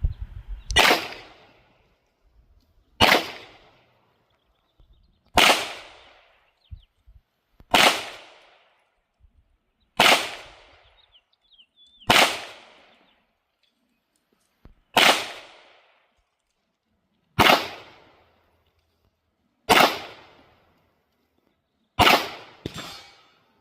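Canik TTI Combat 9mm pistol with a compensator firing slow, deliberate single shots, about eleven of them spaced two to two and a half seconds apart, each with a short echoing tail; the last two come in quick succession near the end.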